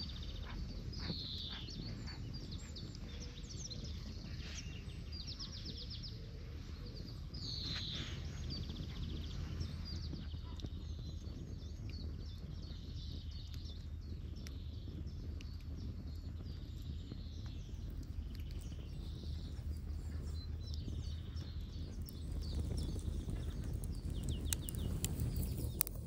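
Wild birds calling outdoors: repeated chirps, short trills and a few quick downward-sweeping calls, over a steady low rumble of wind.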